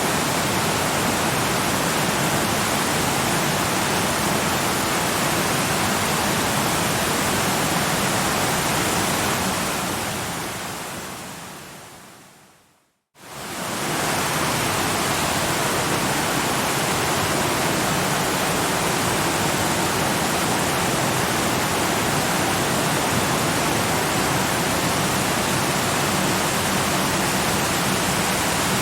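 Steady, full-range rush of a waterfall. It fades slowly to a moment of silence about thirteen seconds in, then quickly swells back to full level.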